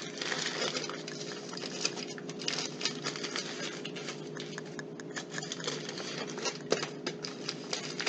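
Irregular patter of small clicks and rustles from kitchen handling, as frozen peas are added and the dinner pouches are closed up. A faint steady hum runs underneath.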